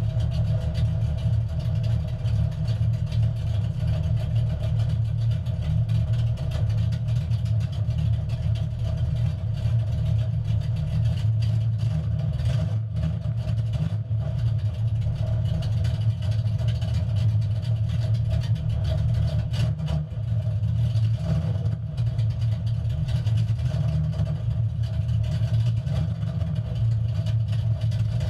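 Naturally aspirated small-block Chevy V8 in a 1968 Camaro drag car idling steadily, with no revving.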